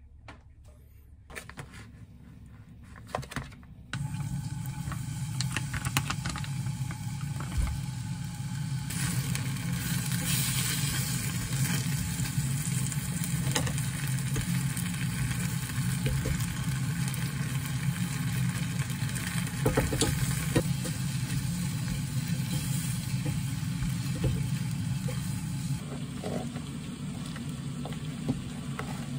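Spicy baby octopus (jjukkumi) stir-frying in a small saucepan on a gas burner: a steady sizzle over a low hum, with occasional knocks of tongs in the pan. It starts about four seconds in after a few small clicks, and softens near the end.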